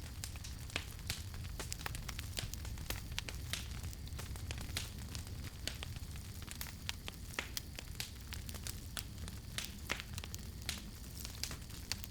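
Campfire crackling: irregular sharp pops and snaps from burning wood, several a second, over a steady low rumble.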